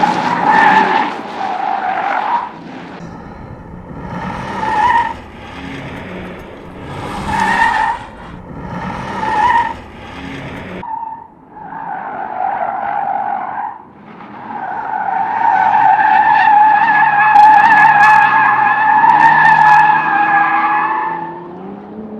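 Car tyres squealing through corners under hard track driving: a string of short squeals, then one long squeal of about six seconds, with the engine running underneath and revving up near the end.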